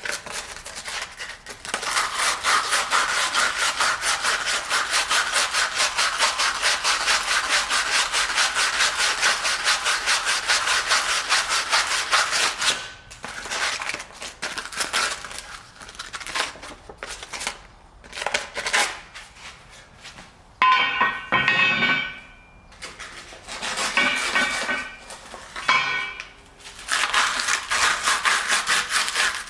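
Sandpaper rubbed by hand over rusted steel lift brackets: fast back-and-forth scraping strokes in long runs, broken by pauses. A brief ringing tone sounds about two-thirds of the way through.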